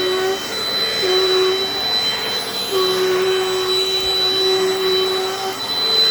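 Dirt Devil Dynamite Plus vacuum cleaner running steadily with a high whine. A lower hum drops out and comes back a few times, with a long stretch in the middle.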